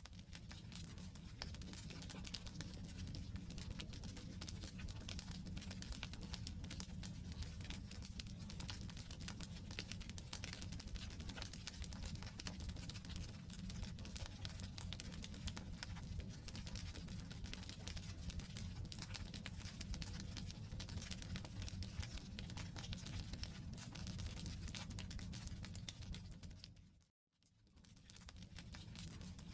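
Wood campfire burning, a steady dense crackle of small pops from the firewood over a low rumble of the flames. About 27 seconds in it fades out for a moment and comes back.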